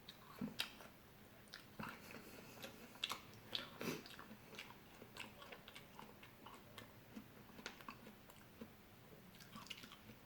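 Close-up chewing and biting of fresh fruit: a run of crisp, wet crunches and clicks, heaviest in the first four seconds, then lighter, sparser chewing.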